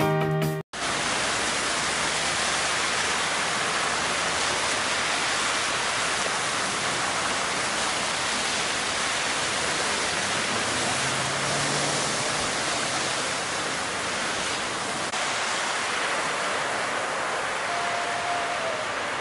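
Heavy storm rain and rushing water: a steady, even hiss that barely changes.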